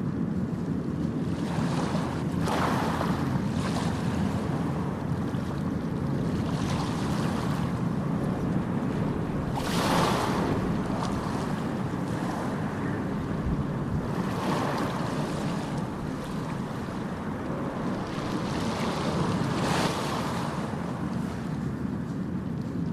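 Ocean surf: a steady low rumble of waves with a louder wash swelling in every few seconds, the strongest about ten seconds in.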